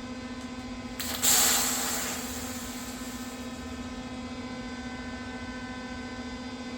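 Water hissing into or over the freshly welded steel differential cover for about two seconds, starting suddenly about a second in and fading away, as it is filled to check the weld for leaks. A steady electrical hum runs underneath.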